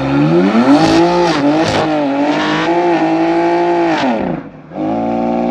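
BMW X3 M Competition's twin-turbo straight-six, stage 1 tuned with its particulate filter and middle silencer removed, revs up and holds at high revs while driven hard. Near the end the revs drop off briefly, then pick up and hold again.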